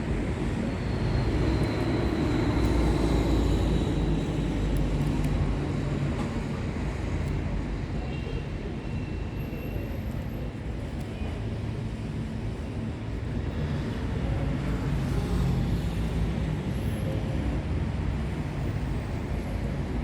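Steady low rumble of background noise like distant road traffic, with a few faint, thin high tones about one and eight seconds in.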